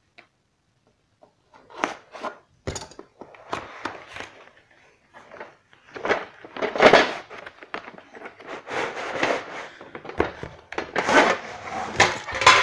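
Cardboard box of a TV wall-mount kit being opened and handled: irregular rustling, scraping and knocks starting about two seconds in. Near the end the black metal wall-mount brackets slide out of the box and knock against each other.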